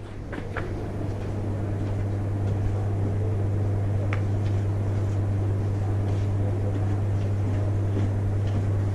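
A steady low hum that fades in and then holds even, with a few faint clicks over it.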